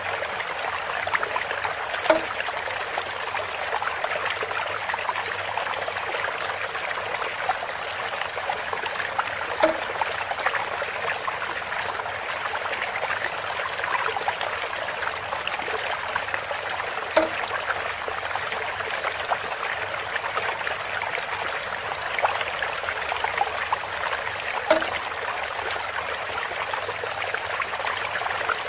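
Water trickling steadily through a bamboo spout, with a short hollow knock about every seven and a half seconds, four times in all.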